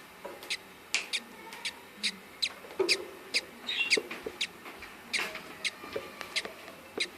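Budgerigars chirping: a quick series of short, sharp, high chirps, about three a second, with some softer lower calls among them.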